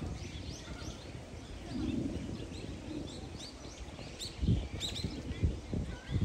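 Small birds chirping, with many short, quick downward chirps repeated throughout. A few dull low thumps come in the second half and are the loudest moments.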